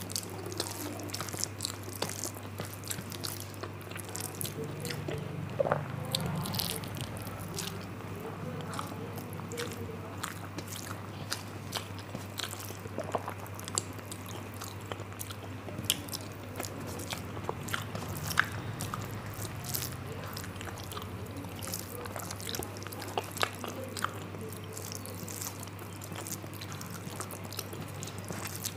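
Close-miked chewing of rice and curry, with frequent short wet mouth clicks and smacks, over a steady low hum.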